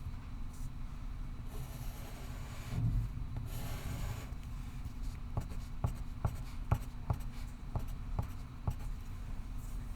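Pencil scratching on paper in short strokes, over a steady low room hum. In the second half, a run of about eight light taps, roughly two a second.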